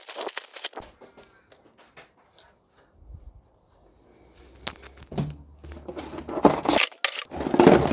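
Handling noises from packaging being opened: rustling and a series of knocks, loudest in the second half.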